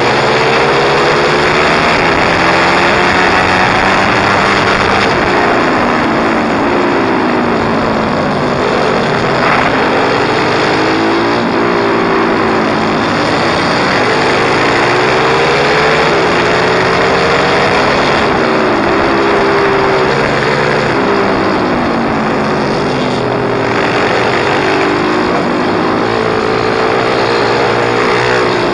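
Pit bike engine revving up and down over and over as it is ridden, pitch climbing and dropping every few seconds with the throttle and gear changes.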